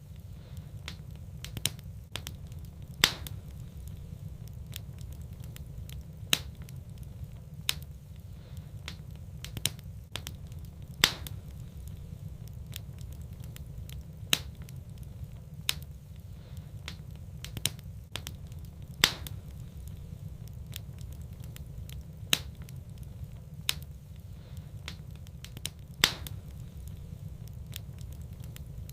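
Wood fire burning in a fireplace: a steady low rumble of flame with irregular sharp crackles and pops, a few of them much louder than the rest.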